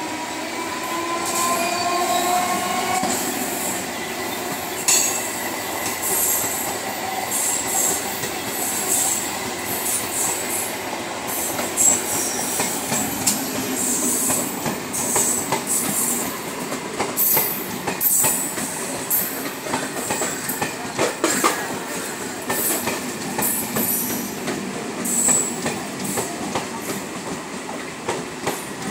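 Eastern Railway suburban EMU local train running past on the adjacent track. Its steel wheels clatter over the rail joints and squeal in high-pitched bursts, with a rising whine in the first few seconds.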